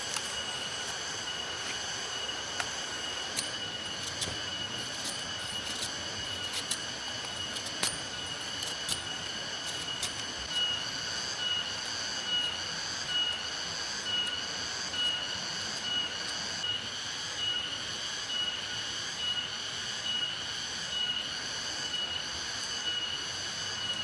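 Insects trilling steadily at a high pitch, pulsing about three times every two seconds in the second half, with a few sharp clicks in the first ten seconds.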